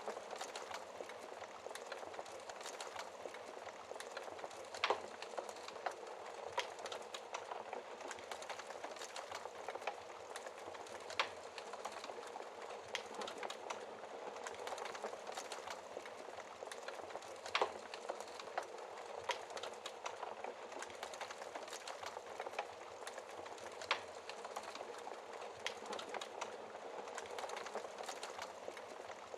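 Wood fire burning in a fireplace: a steady hiss with constant small crackles, and a sharper, louder pop about every six seconds.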